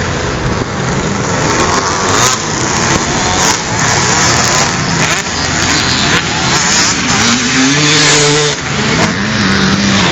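Motocross motorcycle engines running loud and continuously, with an engine revving up and back down in pitch between about seven and nine seconds in.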